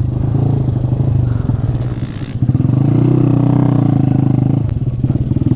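Honda Grom's 125 cc single-cylinder four-stroke engine running as the bike is ridden off-road; the throttle eases off about two seconds in, then opens again and holds steady.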